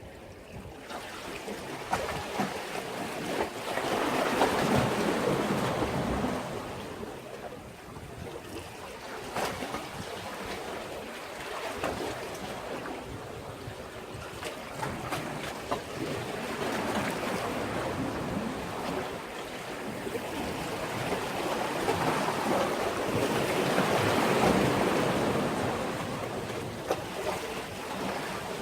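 Sea waves washing against a harbour breakwater, in slow swells. The wash builds to a peak about four seconds in and again about twenty-two seconds in, then falls back.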